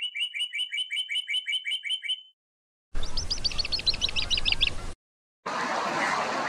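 Two bird trills of rapid repeated chirps, the second higher, then from about five and a half seconds in an even splashing of water as mallards paddle.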